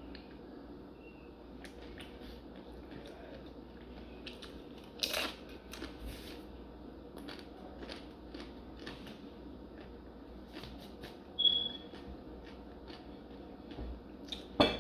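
A person eating a taco, with a run of short crunchy, crackly clicks from biting and chewing; louder crunches come about five seconds in and near the end. A brief high squeak sounds about eleven and a half seconds in.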